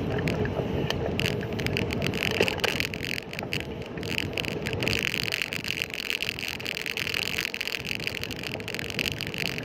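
Steady road and traffic noise heard from a moving bicycle, with a higher hiss coming up after a second or so.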